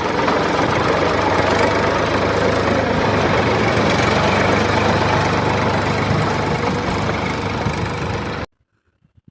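An engine running steadily at idle, cutting off suddenly near the end.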